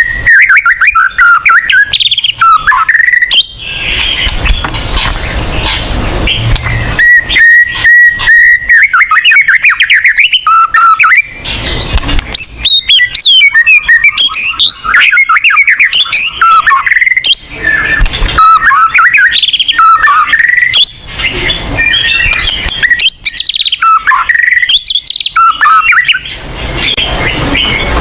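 White-rumped shama (murai batu) singing loudly and continuously: a fast, varied run of clear whistles, sweeping trills and rapid chattering phrases, with harsh raspy passages and short pauses between phrases.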